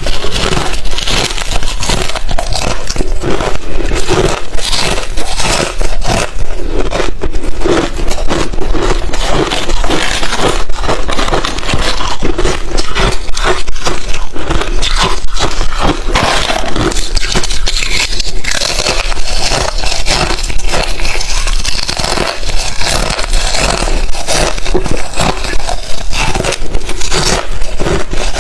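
Crushed, refrozen thin ice chips being bitten and chewed: loud, dense, continuous crunching and crackling.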